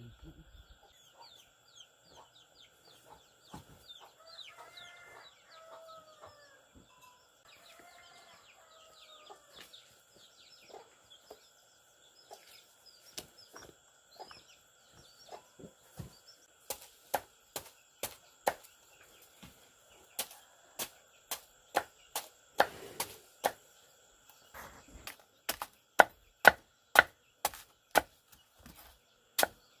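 A chicken calls twice early on over faint chirping. Then, from about halfway, sharp, even chopping strikes begin and grow louder, coming about two a second near the end.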